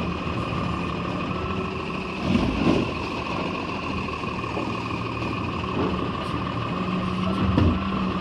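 Garbage truck's diesel engine running steadily with a constant high whine over it, swelling louder briefly about two and a half seconds in and again near the end.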